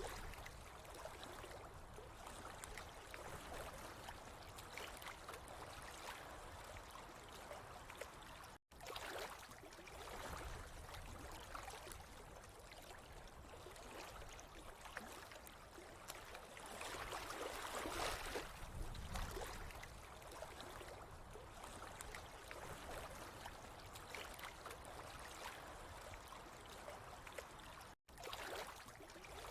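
Steady, faint trickling and gurgling water that swells and eases, with two momentary breaks where the sound drops out completely.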